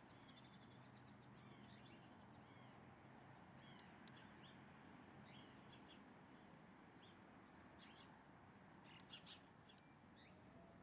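Faint wild birdsong: many short chirps and quick call notes from small birds, scattered throughout, with a cluster of sharp chirps about nine seconds in, over a steady low background hum.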